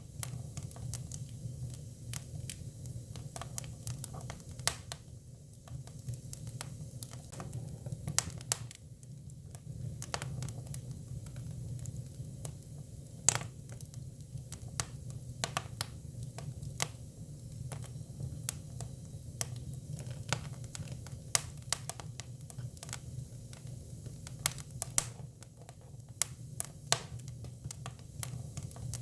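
Hinoki cypress firewood burning: irregular sharp crackles and pops, several a second and some louder than the rest, over a steady low rumble of the fire.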